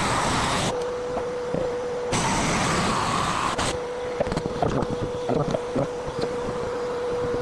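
A power tool running with a steady hum, twice breaking into louder cutting noise: briefly at the start, and again for about a second and a half a couple of seconds in. Light knocks and clicks follow near the end.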